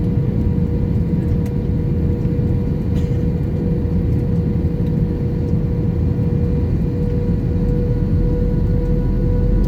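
Steady cabin noise inside an Airbus A321 airliner: the constant rumble of the engines and airflow with a steady hum running through it, the deep rumble growing slightly near the end.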